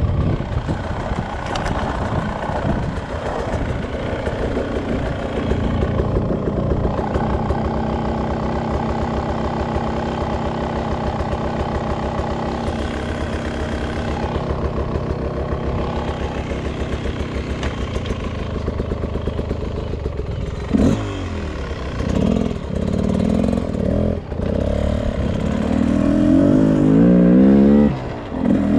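Beta RR 300 Racing's single-cylinder two-stroke engine running at a fairly steady speed for about twenty seconds, then revving up and down in quick changes, with a long rising rev near the end.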